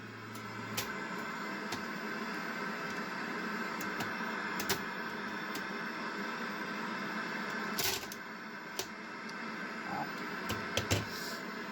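Panasonic PV-1200 VHS VCR running a tape: a steady mechanical whir and hiss with a few sharp clicks.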